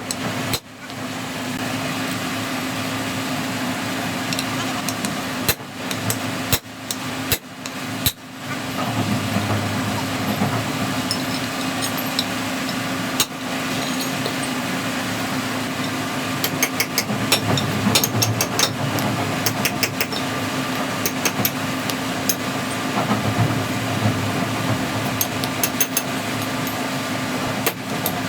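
Wheel loader's diesel engine running steadily, with repeated short, sharp metallic knocks and clicks over it, many of them bunched together in the second half.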